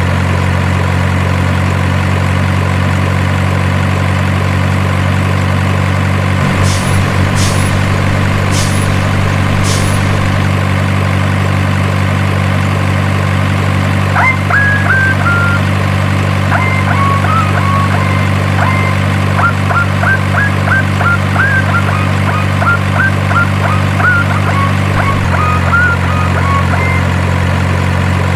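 Steady low drone of an idling truck engine, as from an RC truck's engine-sound module. Four short clicks sound about seven to ten seconds in, and a run of short high chirps comes in from about halfway.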